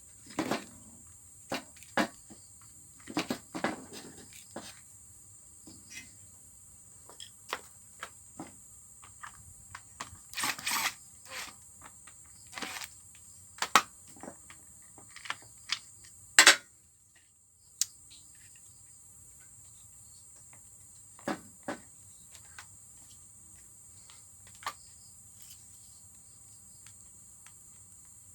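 Irregular clicks, knocks and clatters of hand tools and parts as a Total demolition hammer drill is taken apart, with a few louder knocks around the middle.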